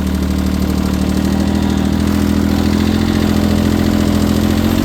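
Three-cylinder diesel engine of a Case International tractor running steadily, getting slightly louder in the first second or so.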